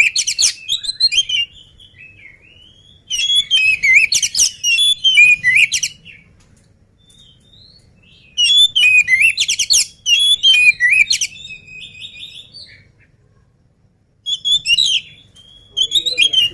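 Oriental magpie-robin singing in loud bouts of a few seconds each, a rapid mix of clear whistles and harsh chattering notes, with short pauses between bouts.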